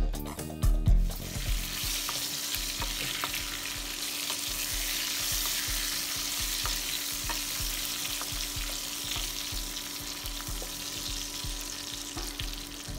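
Masala-coated fried chicken pieces sizzling in hot oil in a steel kadai, with a steady hiss and a spatula stirring and tapping against the pan now and then. Background music stops about a second in.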